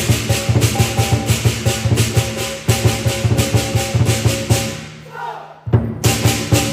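Lion dance percussion: a big drum beating fast under crashing cymbals and gong. It breaks off about five seconds in and starts again a moment later.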